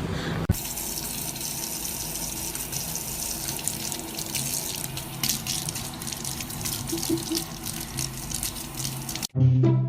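Water running steadily with a splashing hiss. It starts after a sharp click and breaks off near the end, where music begins.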